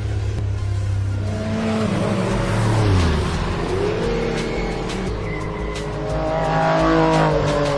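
High-performance race car engine under hard use on track: a low rumble at first, then its pitch repeatedly drops and climbs as it slows and accelerates through the gears.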